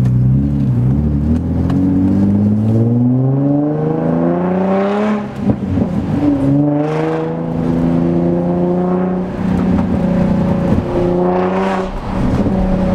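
Infiniti G35 coupe's 3.5-litre V6 with an aftermarket Y-pipe, accelerating hard. The engine note climbs in pitch through each gear and drops back at the gear changes, first about five seconds in, then twice more later on.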